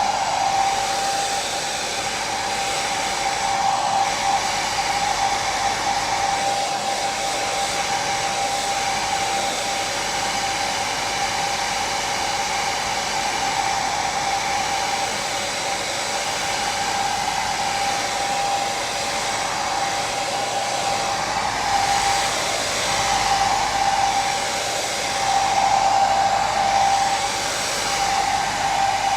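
Electric hair dryer running continuously, a steady rushing whir with a high motor whine, swelling slightly in loudness a few times near the end.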